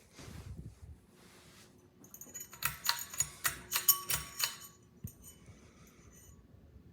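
A quick run of light metallic clicks and jangling, about half a dozen sharp clicks over two seconds, with a faint steady hum underneath.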